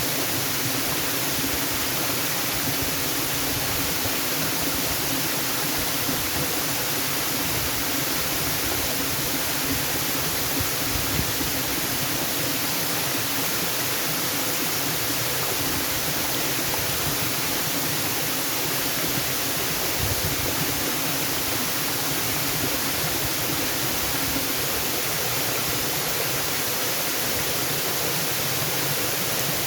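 Waterfall: falling water rushing in a steady, even hiss with no change in level.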